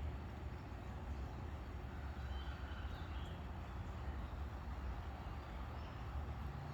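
Steady low rumble of a vehicle engine running, with a few faint short high sounds over it.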